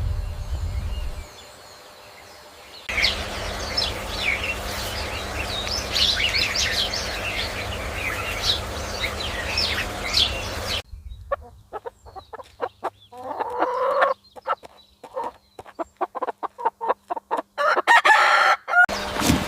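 Chickens: a few seconds of many short, high chirps, followed by hens clucking in short broken calls and a louder crow-like call near the end.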